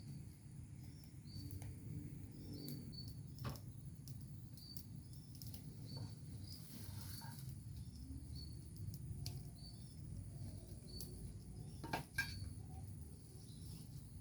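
Outdoor ambience with wind rumbling low on the microphone, short high chirps repeating about every second and a thin steady high whine. A few sharp clicks stand out, the loudest about twelve seconds in.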